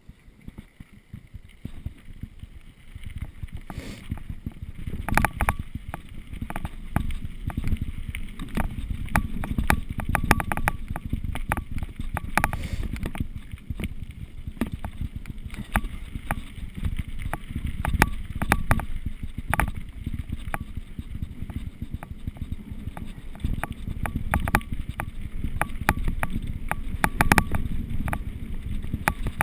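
Mountain bike riding downhill over rough ground: wind buffeting the microphone as a low rumble, with frequent clicks and rattles from the bike over bumps. It grows louder a few seconds in.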